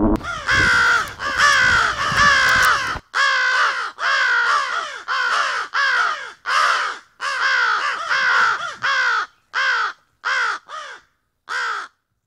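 Bird calling: more than a dozen short calls in a row, each dropping in pitch, growing shorter and more spaced out near the end.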